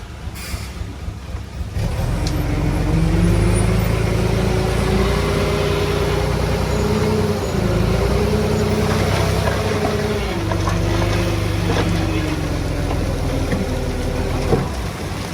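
Heavy machine's diesel engine revving up about two seconds in and running hard under load. Its pitch dips briefly midway, then eases down over the last few seconds.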